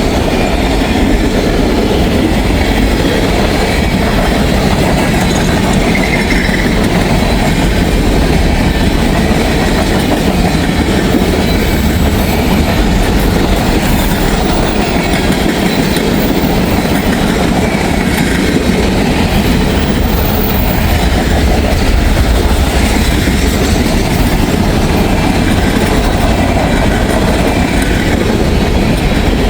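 Freight train cars rolling past close by: a steady loud rumble of wheels on rail with the clickety-clack of wheels over rail joints. Brief high wheel squeals come a couple of times midway.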